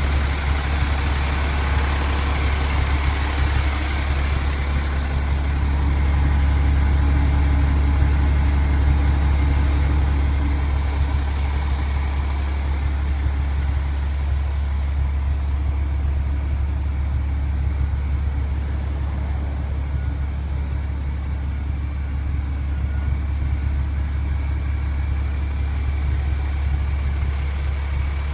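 International DT466E diesel engine idling steadily with a low, even drone; some higher hiss fades out after about five seconds.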